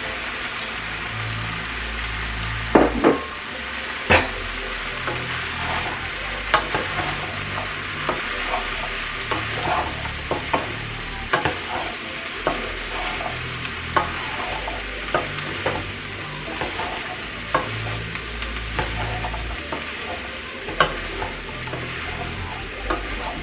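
Zucchini and yellow squash sizzling in a pan with chicken sausage, stirred with a utensil that clicks and scrapes against the pan roughly once a second, with two louder knocks about three and four seconds in.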